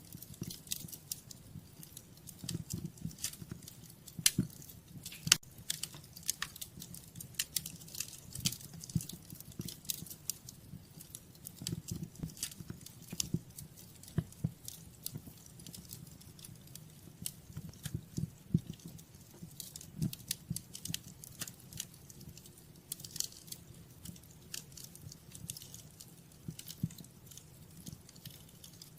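Wood fire crackling in a fireplace: irregular sharp pops and snaps, several a second at times, over a steady low rumble of the burning.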